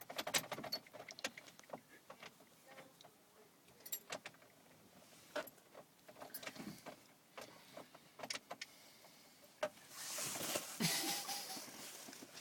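Car keys clicking and rattling in the ignition as the key is worked repeatedly and will not turn, with a louder rush of noise about ten seconds in.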